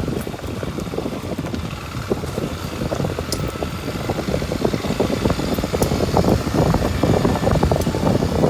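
Kawasaki Super Sherpa's 250 cc single-cylinder engine running as the motorcycle is ridden, a fast rough pulsing that grows louder over the last few seconds, with a couple of sharp ticks along the way.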